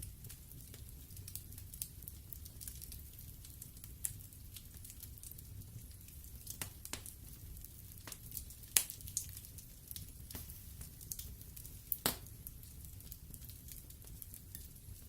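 Wood fire burning in a fireplace: a soft low rumble of the flames with scattered sharp crackles and pops from the burning logs, the loudest pop a little past halfway and another near the end.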